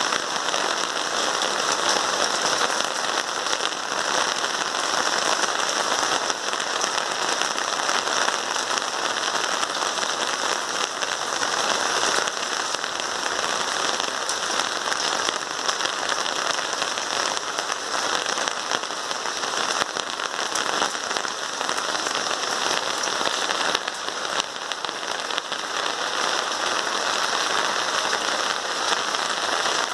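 Rain falling steadily, an even hiss of drops with no breaks.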